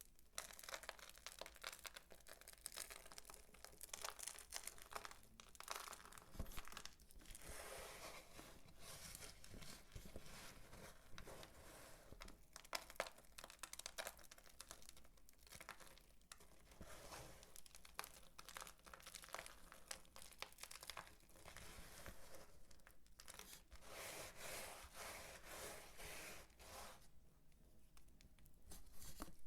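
Dry soap being worked by hand: a faint, dense crackling and crunching, with a brief lull near the end.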